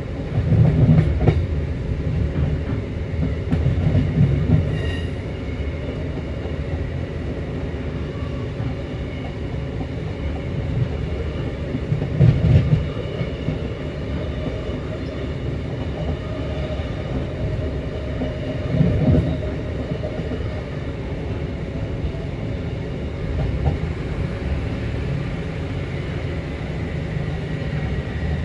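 Passenger train running steadily, heard from on board: a continuous low rumble of wheels on rail, with a few louder bumps as it passes over rail joints and pointwork.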